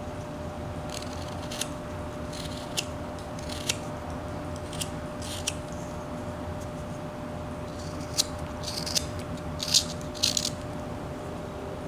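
Whittling knife slicing shavings off a wooden bird carving: about a dozen short, crisp cuts at irregular spacing, busiest near the end, over a steady low hum.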